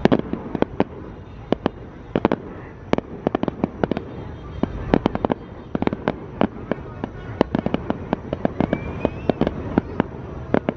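Fireworks display: aerial shells bursting in rapid, irregular sharp bangs and crackles, several a second.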